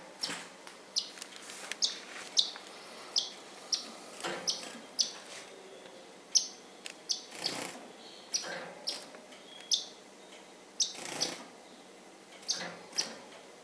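Pet bird chirping in short, high chirps, one or two a second at irregular intervals, with a few brief rustles in between.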